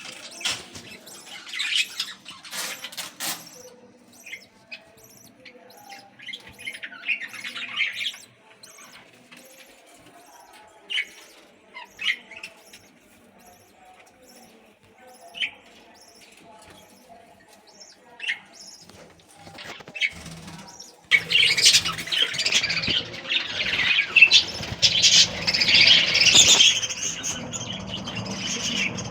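Budgerigars chirping: scattered single calls at first, then, about two-thirds of the way through, a louder, dense chatter of many birds at once.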